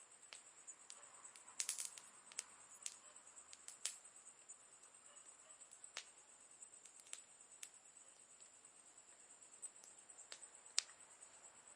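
Campfire crackling faintly: scattered sharp pops and snaps from the burning wood, with a small cluster of pops about two seconds in and the loudest single snap near the end. A faint steady high-pitched hiss runs underneath.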